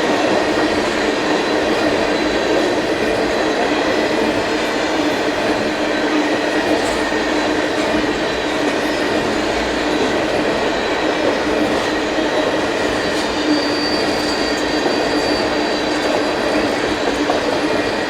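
Freight train cars rolling steadily past on steel rails, wheels rumbling and clattering, with thin high squealing tones from the wheels, one coming in about two-thirds through.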